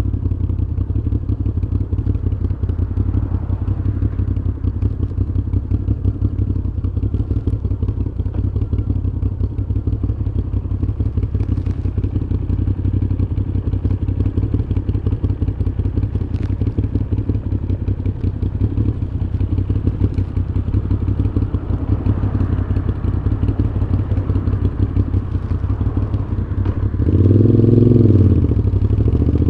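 Moto Guzzi V7's air-cooled transverse V-twin running through a Mistral exhaust at a steady cruise. Near the end a short burst of throttle makes the note rise and fall.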